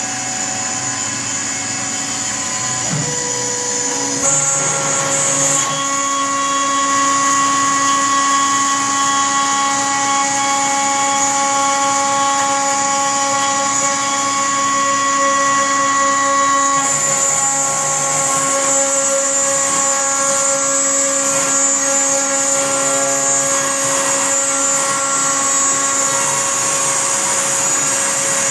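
CNC router spindle running while cutting, a steady, loud whine made of several tones that shift in pitch a few seconds in and again just past halfway as the cut changes, with a hiss that grows stronger in the second half.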